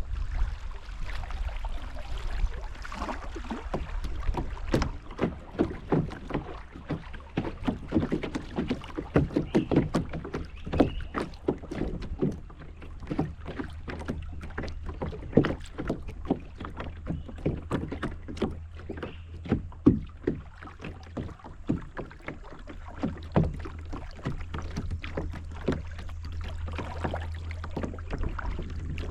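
Kayak being paddled: many irregular knocks and splashes from the paddle against the water and hull, thickest through the middle of the stretch, over a steady low rumble.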